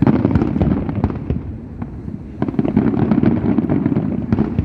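Fireworks going off in a dense run of crackling pops, with a loud surge right at the start and another about two and a half seconds in.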